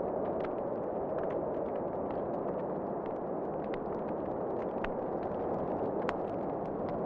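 Wood fire crackling, with irregular sharp pops over a steady rushing background noise; two louder pops come near the end.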